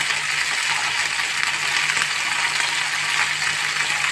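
Cauliflower florets sizzling in oil in a steel kadai on the stove: a steady hiss, with a low steady hum underneath.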